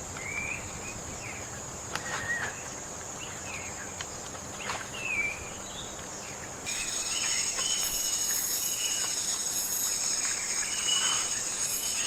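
Tropical forest ambience: a steady high-pitched insect drone with scattered short bird chirps and whistles. A little past halfway it suddenly gets louder as a denser insect chorus comes in.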